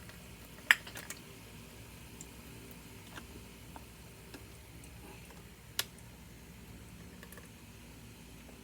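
Sharp plastic clicks and small ticks from handling a toy kitchen set: one loud click under a second in, another near six seconds, over a faint steady hum.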